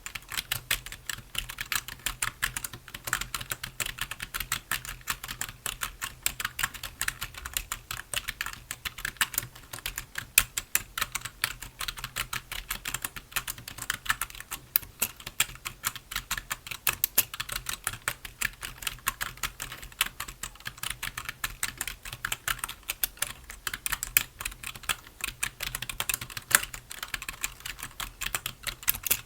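Continuous, fast typing on a computer keyboard: a dense run of key clicks, with a few strokes landing louder than the rest.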